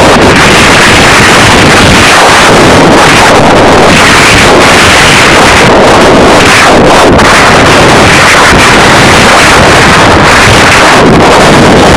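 Wind blasting the microphone on a moving ATV, with the vehicle's engine running underneath; the sound is overloaded and equally loud throughout.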